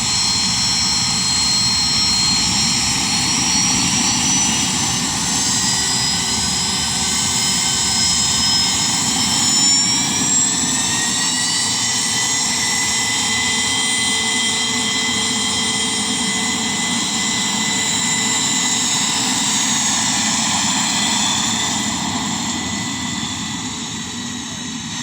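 Jet aircraft engines running at takeoff power: a steady rumble under several high whining tones that slide in pitch, with one tone rising about ten seconds in and the level easing slightly near the end.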